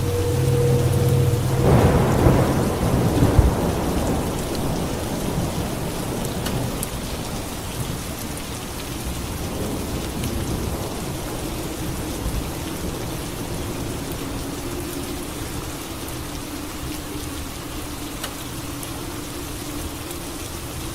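A thunderclap about two seconds in, with a low rumble that dies away over the next couple of seconds, over steady heavy rain.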